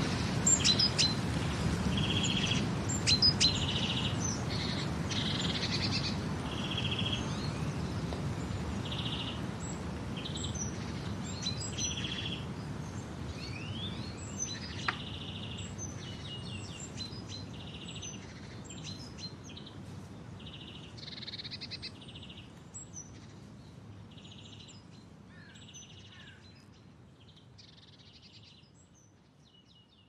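Birds chirping and calling: many short high chirps and a short buzzy call repeated every second or two, over a steady low background rumble. The whole sound slowly fades out.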